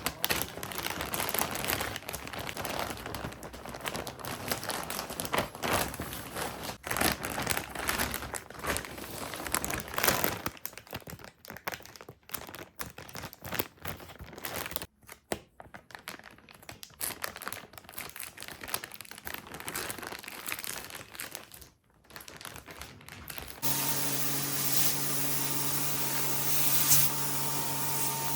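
Packaging being handled, crinkling and rustling irregularly for most of the time. Near the end a vacuum cleaner switches on suddenly and runs with a steady hum.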